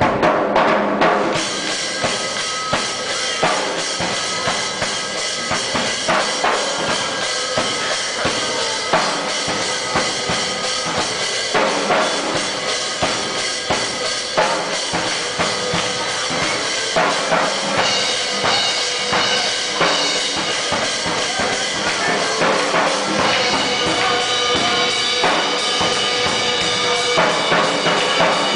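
A street drummer playing a fast, continuous beat, with dense rapid strikes throughout.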